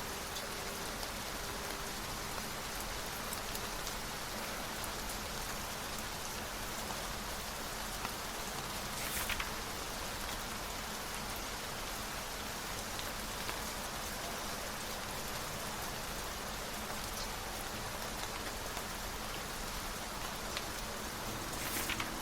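Steady rain, with two brief rustles, one about halfway through and one near the end.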